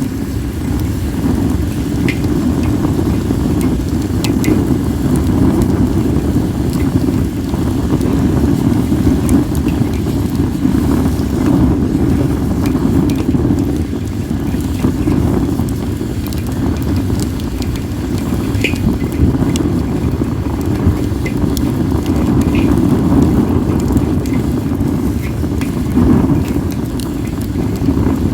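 Wood fire of acacia and mixed firewood crackling, with scattered sharp pops every few seconds. A steady low rumble of wind on the microphone runs under it and is the loudest sound.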